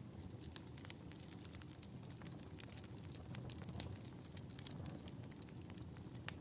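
Wood fire crackling in a fireplace: irregular small pops and snaps over a low steady rumble, with a sharper pop near the end.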